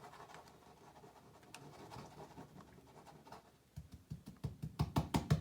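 Soft scratching against a surface, then from about four seconds in a quick run of sharp taps, several a second, growing louder.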